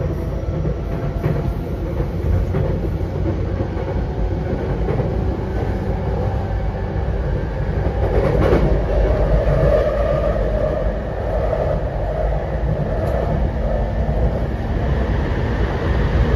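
Interior running noise of a JR East E233-7000 series electric train car: a steady low rumble of wheels on rail, with faint steady tones over it. The noise swells for a few seconds about halfway through.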